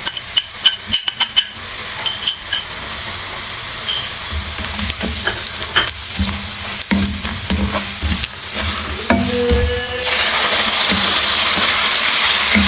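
Sliced onions and spices frying in oil in a metal karahi, stirred with a wooden spoon: scraping and taps of the spoon against the pan over a steady sizzle. About ten seconds in, tomato paste goes into the hot oil and a much louder sizzle starts.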